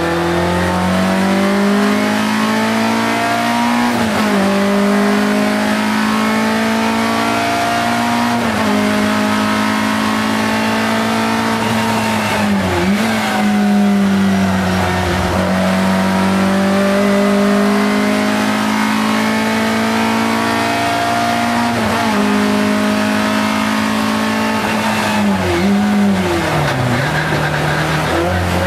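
Škoda 130 LR race car's four-cylinder engine at full racing effort, heard from inside the cabin. The revs climb through each gear and drop sharply at the shifts every few seconds, with quick throttle blips on downshifts under braking.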